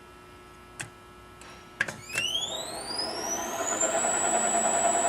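Two clicks, then the SK 330 profile grinder's motor starting on its variable frequency drive: a whine rises in pitch for about two seconds as the motor ramps up, then holds at one steady high tone over a running hum once it reaches speed.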